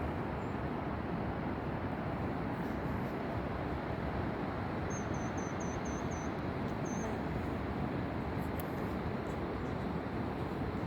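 Steady road and engine noise of a vehicle on the move, heard from inside.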